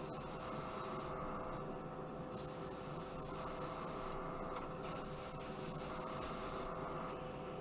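Airbrush spraying paint in three bursts of about two seconds each, an even hiss, with a steady low hum underneath, laying down a speckled weathering effect.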